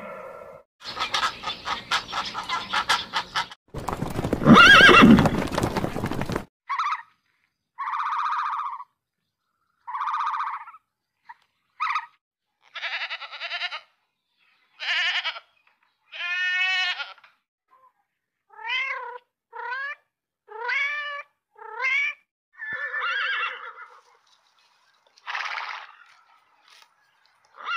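Animal calls. First comes a buzzing, rattling sound and then a loud, harsh, noisy call. After that a goat bleats over and over in short, separate bleats, one with a quavering pitch.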